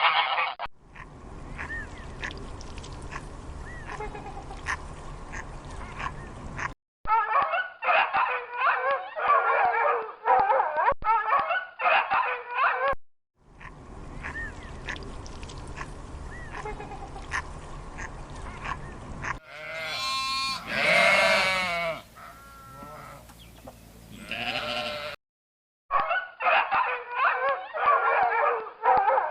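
A string of farm animals calling in separate short clips joined by abrupt cuts. Some stretches hold dense repeated calls and one holds calls that glide up and down in pitch.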